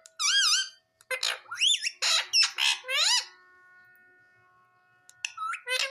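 Pet ringneck parakeet giving a run of high, wavering squeaky calls, several close together over the first three seconds, then a pause, then more calls near the end.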